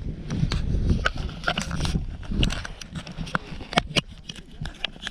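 Footsteps on a rough path while climbing: irregular clicks and knocks over a low, uneven rumble.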